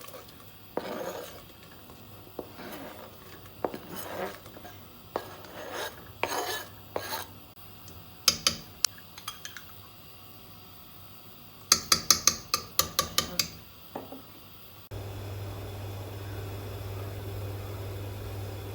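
Kitchen utensils clinking and scraping against pots and dishes, with a quick run of sharp metal taps a little past the middle. Near the end this gives way to a steady mechanical hum.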